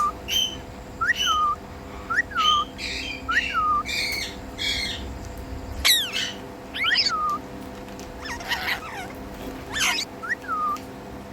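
Indian ringneck parakeet calling: a run of short whistled chirps that rise and drop, about one a second, mixed with harsher squawks.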